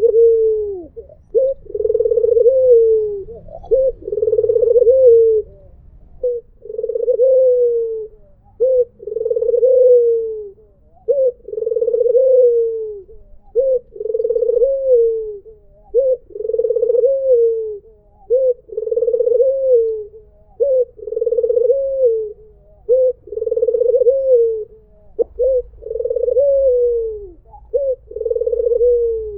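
White Barbary dove (puter) cooing over and over. Each phrase is a short rising note followed by a longer coo that drops in pitch at the end, repeated about every two seconds.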